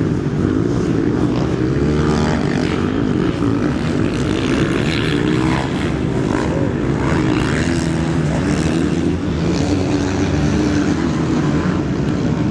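Several motocross bikes running on the track at once, their engines revving up and down in overlapping, wavering pitches.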